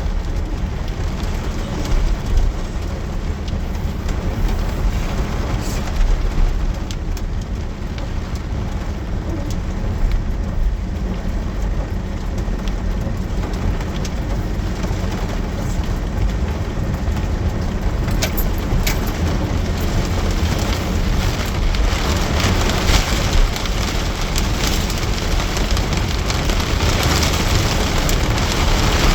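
Heavy rain falling steadily, a continuous hiss with scattered sharper drop ticks over a constant low rumble. The hiss grows stronger after about twenty seconds.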